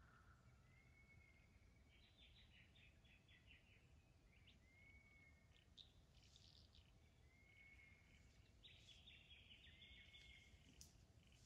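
Faint bird calls: a short whistled note repeated every couple of seconds, and two quick runs of chirps, one early and one near the end.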